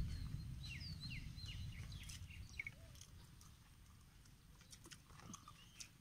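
Small birds chirping outdoors: a quick series of short, falling chirps in the first few seconds and a few more later, over a faint low rumble.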